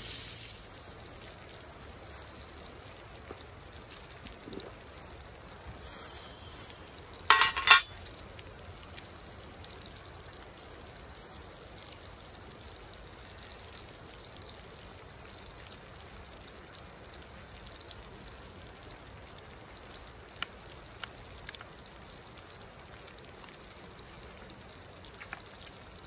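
Meat sizzling in a skillet over a campfire, a steady quiet hiss with small crackles. Two loud clinks come close together about seven seconds in.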